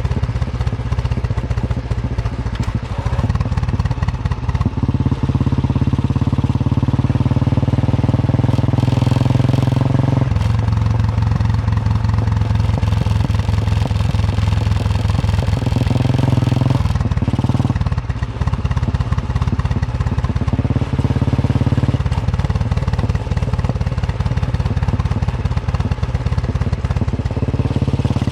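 Royal Enfield Bullet 350's single-cylinder engine thumping along under way, its exhaust beat steady. The note rises as it pulls and drops back abruptly several times, as with gear changes.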